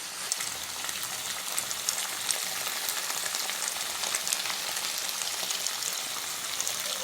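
Food sizzling in a hot pan: a steady hiss with scattered small crackles.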